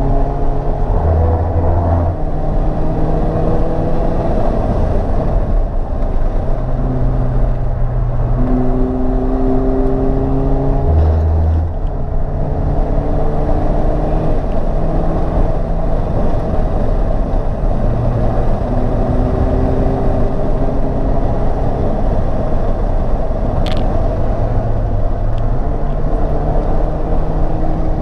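Mercedes-Benz SLK R170 engine with an aftermarket exhaust, heard from inside the car, pulling hard at track speed. The engine note climbs and then drops back several times as the automatic transmission changes gear, over steady road and wind noise.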